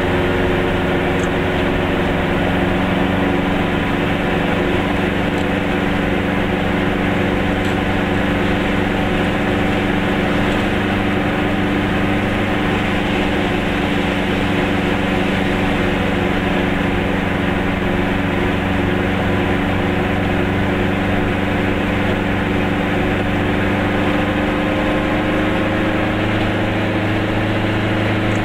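Goggomobil's air-cooled two-stroke twin-cylinder engine running steadily under way, heard from inside the small car. Its pitch rises slightly near the end.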